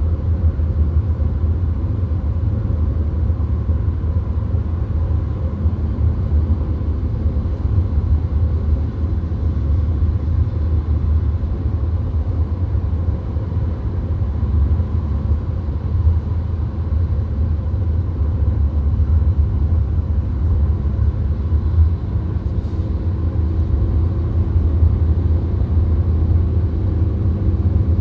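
Steady low rumble of a VW Golf cruising at motorway speed, heard from inside the cabin: tyre, engine and wind noise blended into an even drone.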